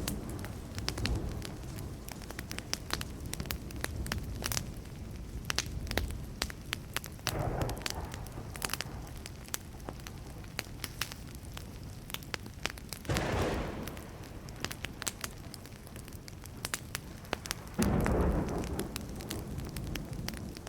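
Wood campfire crackling and popping steadily, with many sharp snaps. Low rumbles of distant thunder swell up three times, about a third, two thirds and near the end of the way through.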